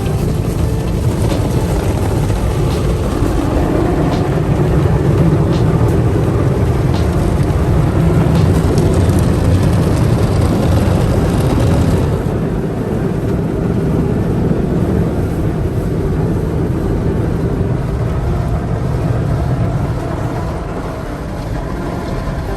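Automatic car wash machine running over the car, heard from inside the cabin: a loud, steady rushing noise over a deep rumble, with scattered light ticks in the first half. About halfway through the higher hiss drops away and the rumble carries on.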